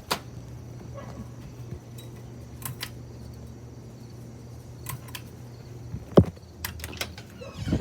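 Steady low hum of a running ceiling fan motor, with scattered clicks and a thump about six seconds in.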